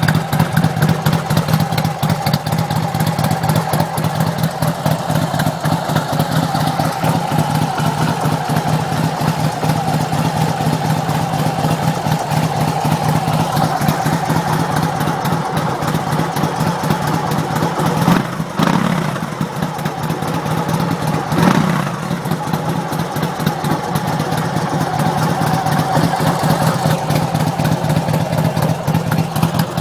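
Custom Harley-Davidson chopper's V-twin engine idling with a fast pulsing beat, blipped twice a few seconds apart past the middle.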